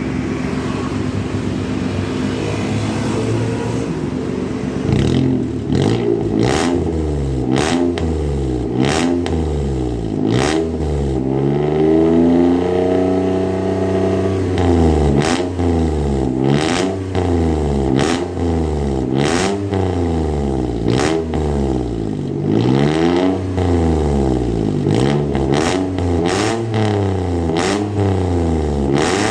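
Daihatsu Ayla's engine revved again and again through an aftermarket JS Racing exhaust, its pitch climbing and dropping with each blip of the throttle, with one longer rev held near the middle. Sharp cracks are heard among the revs.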